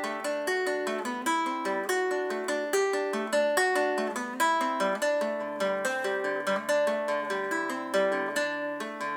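Instrumental break in an acoustic song: a plucked string instrument picking a quick melodic run, several notes a second, each note ringing and fading.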